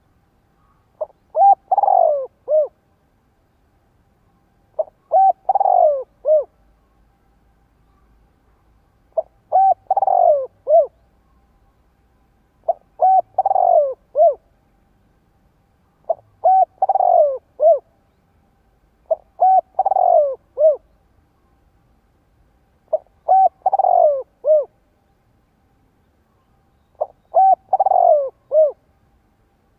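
Spotted dove cooing: a phrase of several short coos with one longer, falling coo in the middle, repeated eight times about every three to four seconds.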